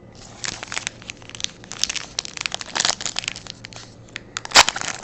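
Crinkling and crackling of a foil trading-card pack wrapper being handled, with one sharper crackle near the end.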